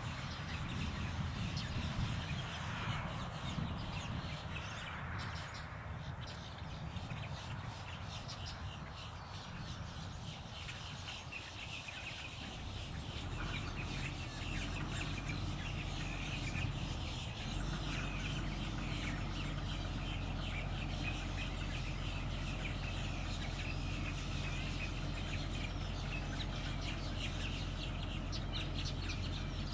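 Birds calling and chirping over the whole stretch. A steady low hum comes in about halfway through.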